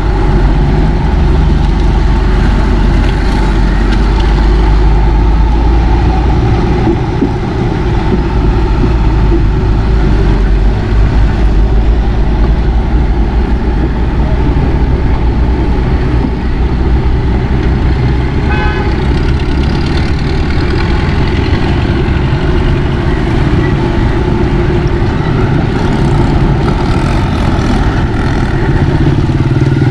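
Steady loud vehicle noise from riding a motorbike through flooded streets: engine and road rumble close to the microphone, heaviest in the first several seconds. A short horn toot sounds a little past halfway.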